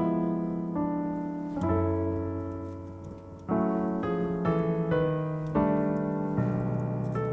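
Background piano music: slow chords struck about once a second and left to ring and fade.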